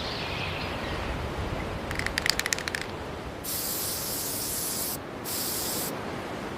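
Aerosol spray can: a quick rattle of clicks as it is shaken, then two hissing spray bursts, the first about a second and a half long and the second shorter, over a steady background hiss.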